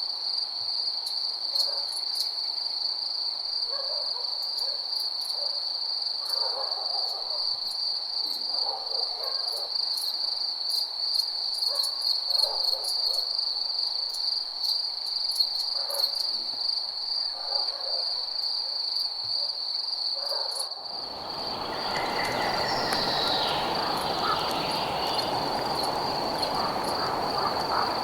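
Crickets trilling in one continuous high chirring, with soft, short low calls every second or two. About 21 s in, a steady rushing noise comes in suddenly under the crickets.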